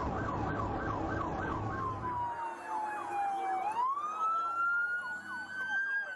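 Police car sirens: a fast yelp sweeping about five times a second, joined about two seconds in by a slow wail that falls, then rises, while the yelp carries on fainter underneath. A low road rumble drops away at about the same time.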